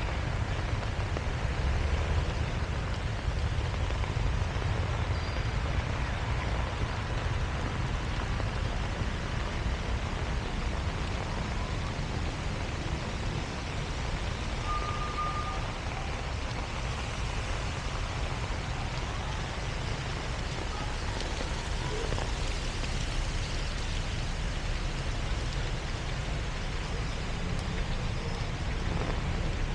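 Heavy rain falling in a continuous steady hiss, over a low rumble of street traffic. A short faint beep sounds about halfway through.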